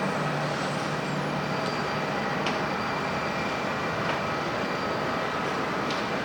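Jet airliner engines running steadily, a continuous noise with faint high whines over it.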